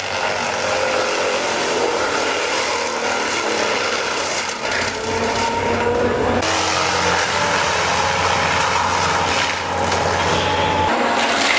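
Engine-powered wood-cutting machinery running while cutting wood, with the engine pitch slowly rising. The sound changes abruptly about six seconds in and again near the end.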